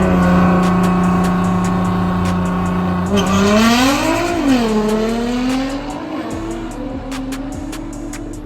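A car engine revs up and holds high rpm for about three seconds. Its revs then dip, swell and fall, and it fades away toward the end.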